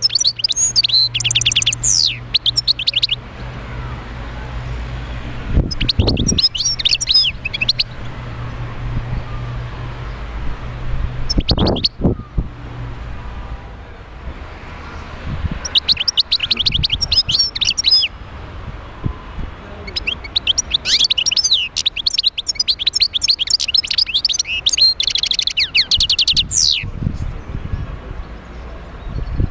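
European goldfinch singing in several bursts of fast, high twittering with pauses between, the longest burst in the second half. A low hum runs under the first half, and there are two dull thumps, about six seconds in and just before the halfway point.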